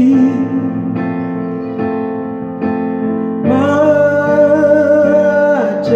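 Gospel worship song: electric piano chords struck about once a second, then a long held sung note with vibrato over the chords in the second half.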